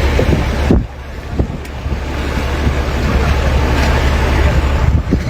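Wind buffeting the microphone: a loud, steady low rumble under a rushing hiss. It drops off suddenly less than a second in, then builds back up.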